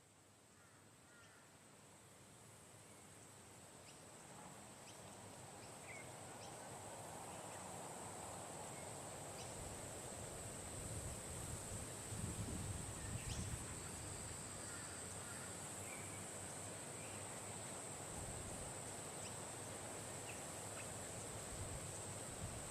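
Outdoor ambience of small birds giving short, scattered chirps over a steady high-pitched insect drone. The sound fades in over the first several seconds, and wind rumbles on the microphone in gusts in the second half.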